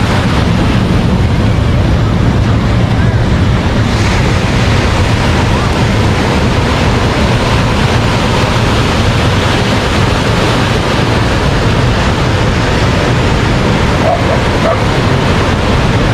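Steady rush of ocean surf breaking on the beach, with a dog barking faintly now and then.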